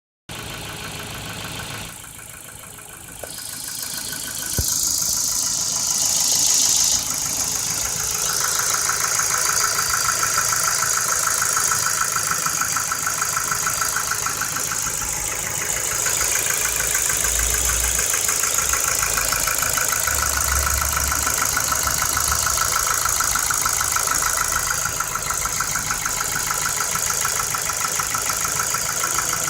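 Ford Focus 2 1.6-litre engine idling with a steady, rapid knock, which is taken to be worn piston pins, a fault needing an engine rebuild.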